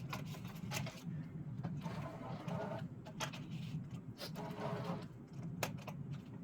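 Steel MIG welding wire being wound onto a spool, with irregular clicks and short rattles over a steady low hum.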